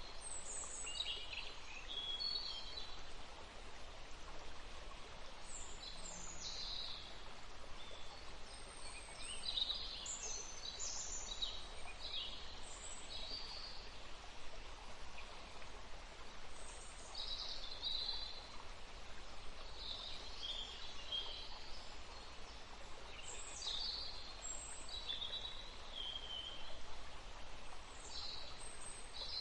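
Forest stream running with a steady rushing hiss, while songbirds call and sing over it in repeated short high chirps and trills.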